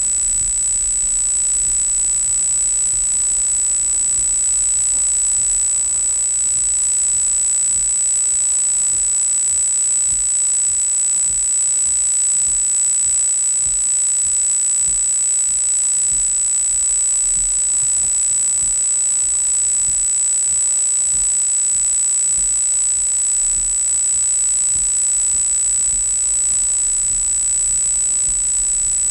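Dashcam audio: a steady high-pitched electronic whine that never changes, over continuous even hiss, with a faint uneven low rumble underneath.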